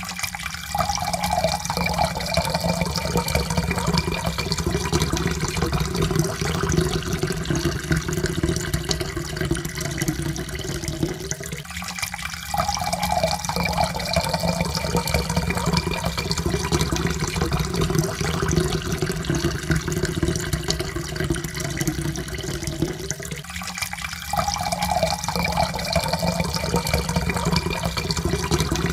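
Water poured in a steady stream into a cup, the pitch rising as the cup fills. The pour restarts after a brief break about every twelve seconds, three times over.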